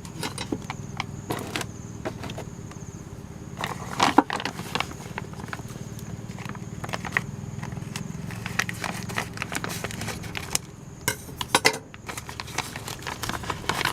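A package being unpacked and its lower ball joints handled: scattered clicks, knocks and short rustles of packaging over a steady low hum.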